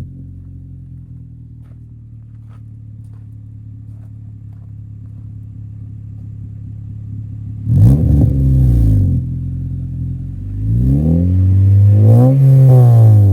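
2013 Honda Civic Si's 2.4-litre four-cylinder running through an Invidia N1 catback exhaust with its silencer insert out. It idles steadily, is blipped once in a quick rev that drops back about eight seconds in, then is revved again, longer and higher, near the end.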